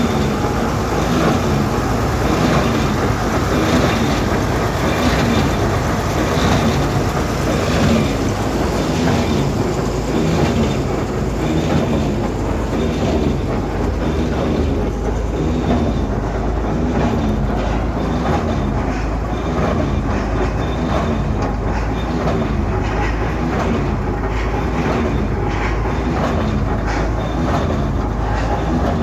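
A train running steadily, with a regular repeating clatter.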